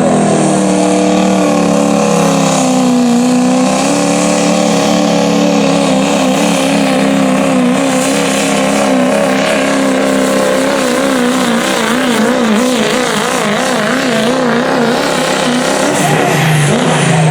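Turbocharged diesel pickup truck's engine at full throttle pulling the sled, running loud and steady with its pitch wavering. Near the end the engine drops in pitch as it comes off throttle, and a high whistle falls away.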